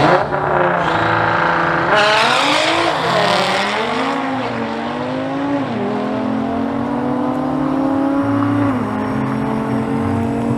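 A car's engine accelerating hard under full throttle, its pitch climbing steadily and then dropping sharply at each upshift, with shifts about six and about nine seconds in. The first two seconds are a loud, rough mix of engine and tyre noise.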